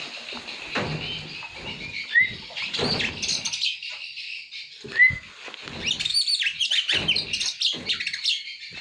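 Oriental magpie-robin chirping in short high calls, with two brief upslurred whistles about two and five seconds in and a denser run of chirps near the end, over some rustling and knocks.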